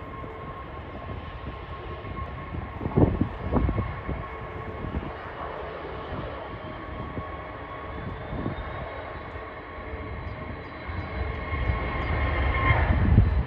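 Jet airliner engines running with a steady whine over a rumble, swelling louder near the end. Two short thumps come about three seconds in.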